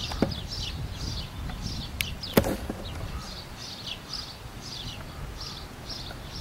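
Small birds chirping, short falling notes about two a second, over a low steady rumble. A sharp click comes about two and a half seconds in.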